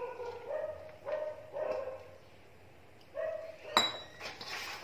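A dog barking in the background, about four short barks, with a sharp click about four seconds in that is the loudest sound.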